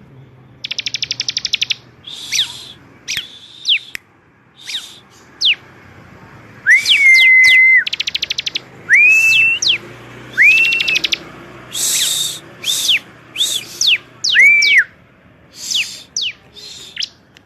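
Bar-winged prinia (ciblek) singing loudly in short, varied phrases: fast rattling trills, clear whistled notes held briefly, and quick downward-sweeping notes, with brief pauses between.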